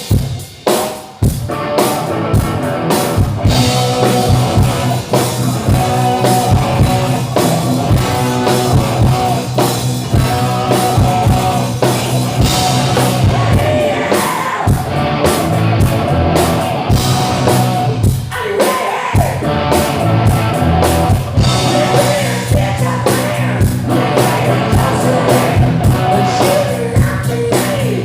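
Live rock band playing loud: electric guitars, bass and drum kit, with a singer.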